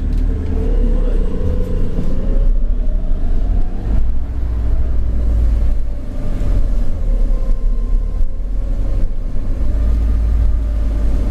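Alexander Dennis Enviro400 double-decker bus with BAE Systems hybrid drive running on the road, heard from inside: a deep rumble under a steady whine that rises slightly in the first couple of seconds.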